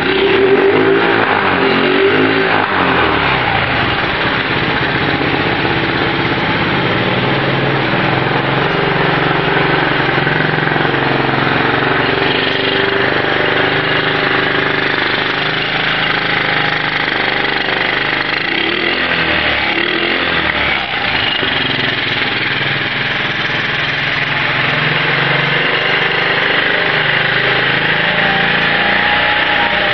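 Honda mini bike's small single-cylinder four-stroke engine idling, with short throttle blips near the start and again about two-thirds of the way through.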